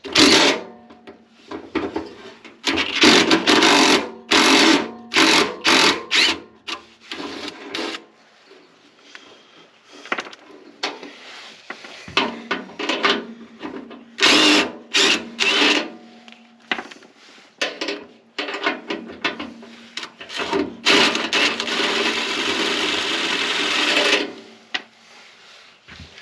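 Hand-tool work on furnace blower-motor parts: a run of rough scraping or rasping strokes, in two bursts of quick strokes, then one steadier scrape lasting about three seconds near the end.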